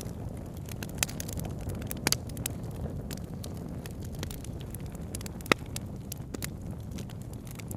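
Campfire crackling, with scattered sharp pops from the burning wood over a steady low rumble. The loudest pops come about a second in, about two seconds in, and, loudest of all, about five and a half seconds in.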